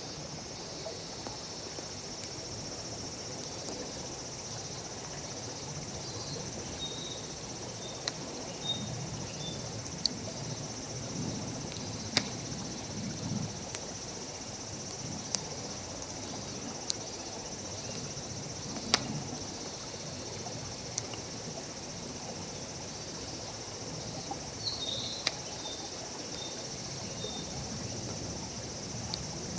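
Wood campfire crackling, with sharp pops every second or two, over a steady high drone of insects. A few short chirps come through about a quarter of the way in and again near the end.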